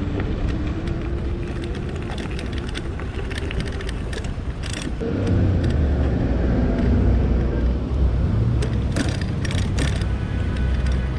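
City road traffic heard from a moving e-bike: a steady low rumble with motor vehicles passing, their engines rising in pitch as they pull away, and the noise grows louder about halfway through. A few sharp clicks sound near the end.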